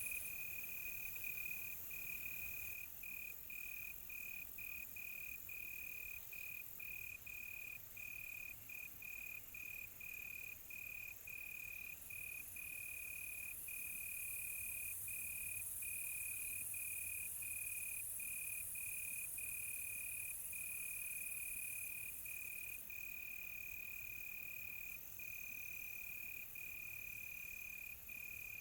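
Crickets chirping in a steady high trill on one pitch, broken by short irregular pauses, over a fainter high hiss of more insects.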